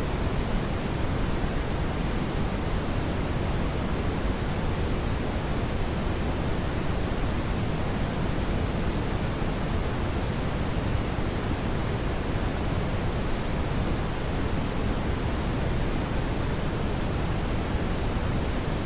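Steady brown noise: an even, unbroken rumbling hiss weighted toward the low end.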